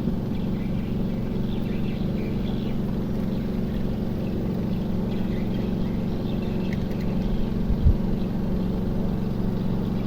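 Small boat engine running steadily at low speed, with a short low knock about eight seconds in.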